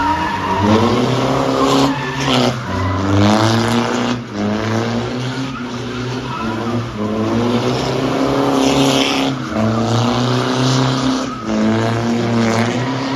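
A car engine revving hard, its note climbing and then dropping back several times, as when accelerating through the gears.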